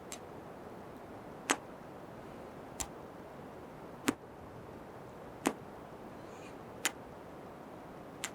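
Close-miked kiss sounds: seven short, sharp lip smacks, evenly spaced about one every second and a half, over faint steady hiss.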